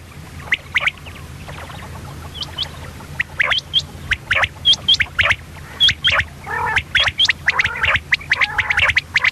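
Common quail calling: a rapid, irregular series of short, sharp chirps, some hooking upward in pitch, broken by a few lower, rolling calls, over a steady low hum.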